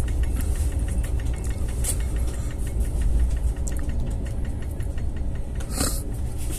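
Inside a moving Netaji Express passenger coach: a steady low rumble with a fast clatter and rattle of the carriage, and two short hissing bursts, one about two seconds in and one near the end.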